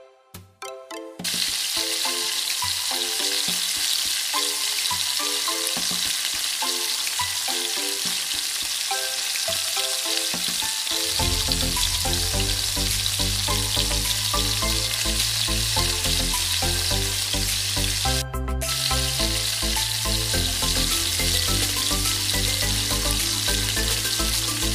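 Yard long beans and yellow pepper sizzling in a hot oiled wok as they are stir-fried with a spatula. The sizzle starts suddenly about a second in and runs steady, with a short break about three quarters of the way through, over background music.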